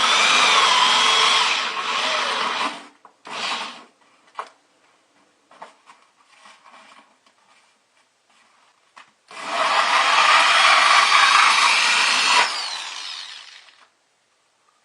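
Electric drill with a hole saw cutting a 2 1/8-inch hole through a bucket's liner, in two long runs with the motor's pitch wavering under load. Short scraping and clicking sounds come between the runs.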